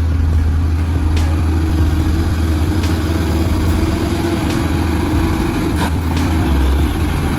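Heavy truck engine running steadily under load, a low, even drone with a few faint knocks.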